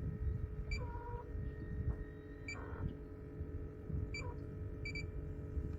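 Short high electronic beeps, one about every second and a half to two seconds, with a quick double beep near the end, over a steady low rumble.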